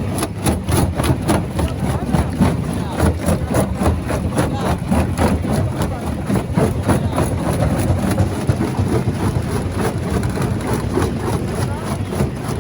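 Rock crusher running under load, breaking stone: a steady heavy machine drone with frequent, irregular cracks and knocks of rock being crushed.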